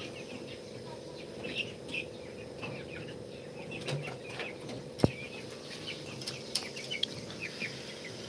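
Birds chirping in short, scattered calls over a steady background hum, with one sharp click about five seconds in.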